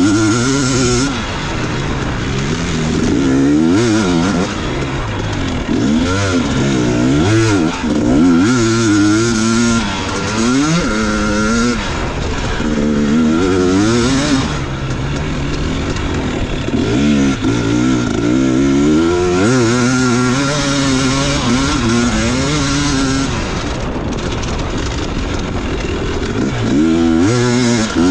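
Motocross dirt bike engine being ridden hard, its pitch rising and falling again and again as the throttle is opened and chopped and the gears are run through.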